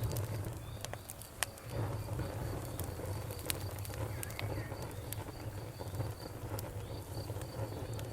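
Campfire burning, with irregular sharp crackles and pops over a low rumble of the flames. A faint high chirp repeats steadily a few times a second.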